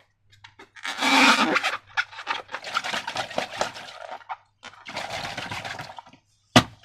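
Slime being squished and worked by hand: sticky, crackling squelches and rubbing in uneven bursts, with a sharp click near the end.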